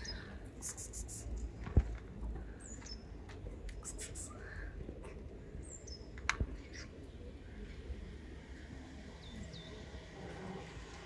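Small birds chirping now and then, a few short, very high notes that slide down in pitch, with scattered sharp clicks and ticks in between.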